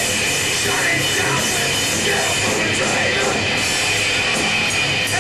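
Live rap-metal band playing at full volume: distorted electric guitars, bass and drums in a dense, steady wall of sound, recorded from the audience so it sounds harsh and crowded.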